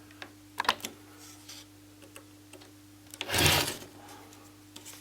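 A few light clicks of handling, then about three seconds in a loud half-second scraping bump as the LCD TV's screen panel slips and is caught.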